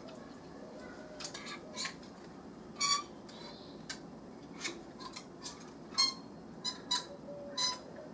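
Birds calling: short, harsh notes repeated irregularly, about a dozen, the loudest about three seconds in, six seconds in and near the end.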